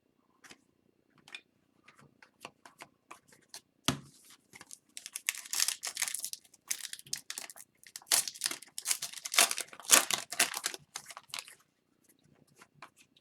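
Foil wrapper of a hockey card retail pack being torn open and crinkled, in a dense run through the middle. Before it come scattered light clicks and a sharper click about four seconds in; a few light clicks follow.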